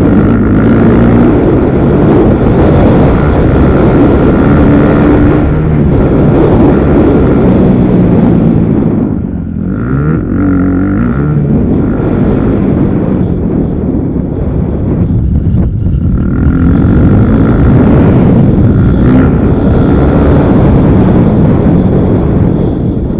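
Motocross bike engine revving up and down as the throttle is worked, with wind buffeting the microphone. The engine eases off briefly about nine seconds in, then picks up again.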